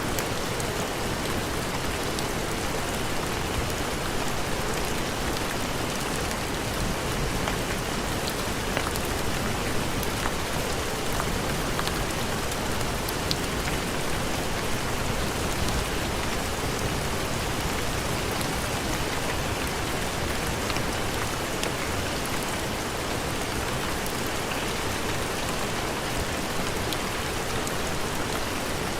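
Steady heavy rain, an even hiss of falling rain with scattered small sharp ticks of single drops.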